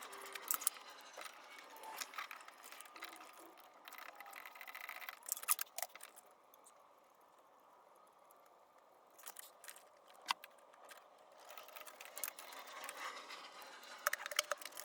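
Faint, scattered clicks and light metallic clinks of hand tools and small engine parts being handled, with a quiet stretch in the middle and one sharper click a little after it.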